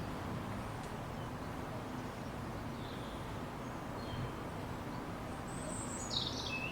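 Steady low background noise outdoors with a few faint, short bird chirps, the clearest about six seconds in.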